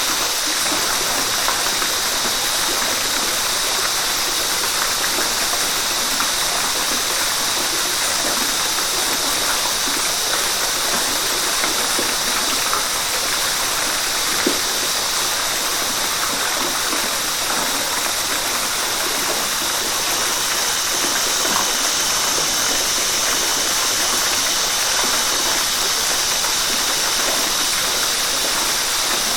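River water rushing steadily: a constant, even hiss that is strongest in the upper range.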